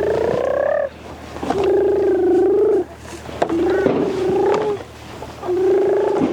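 Donkey braying: four long calls in a row, each about a second, with short breaks between; the first call rises in pitch and the rest hold lower and steadier.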